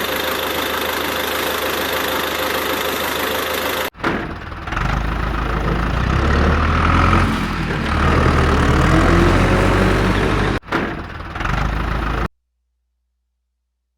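Vehicle engine running, heard in three separate cuts: first a steady, even run, then a heavier, deeper running with shifting pitch, and a short final stretch. The sound stops dead about two seconds before the end.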